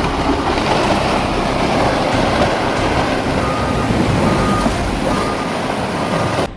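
Loud, steady rushing rumble with a short electronic beep repeating four times, a little under a second apart, in the second half, like a vehicle's reversing alarm; the sound cuts off abruptly near the end.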